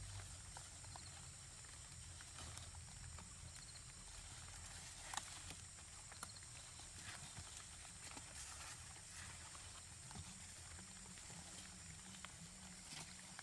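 Quiet outdoor ambience with a steady faint high hiss and a scattering of light clicks or taps, the sharpest about five seconds in.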